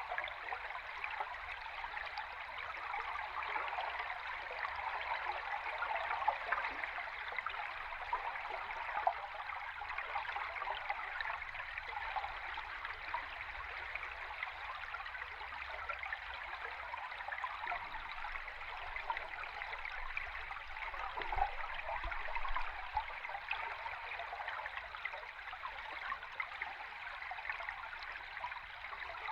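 Stream water heard underwater: a steady, even water noise dense with small bubbly ticks, over a low rumble.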